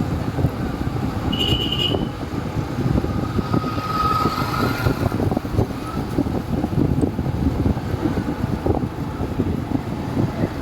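Motorcycle riding through traffic: a steady rumble of engine, road and wind noise on the microphone, with a short high-pitched tone about a second and a half in and a lower tone around four seconds in.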